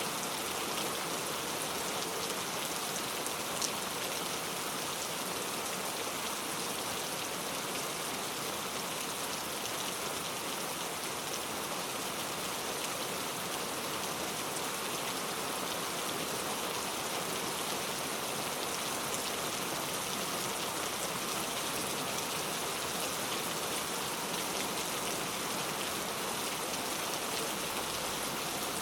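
Heavy rain falling steadily, an even hiss of drops tapping on a leaf-covered road, with one slightly louder drop tick about three and a half seconds in.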